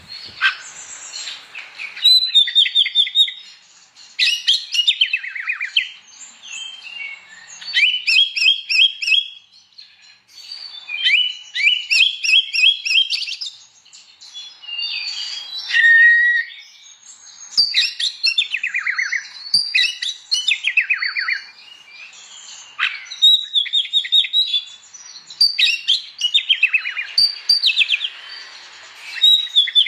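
Oriental magpie-robin (kacer) singing loudly in full song: bursts of rapid whistled and trilled phrases, high and sweeping, come every couple of seconds with short pauses between. About halfway through comes one held, lower whistle.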